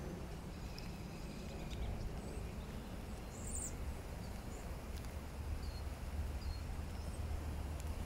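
Birdsong: a few faint, short high chirps and calls scattered through, the clearest one about three and a half seconds in, over a steady low outdoor rumble.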